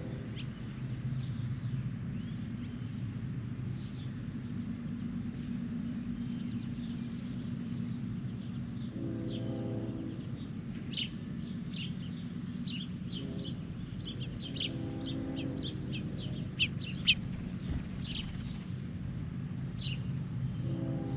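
Birds chirping in quick, short calls, thickest in the middle stretch, over a steady low hum. A few brief lower, buzzy-pitched sounds come in now and then.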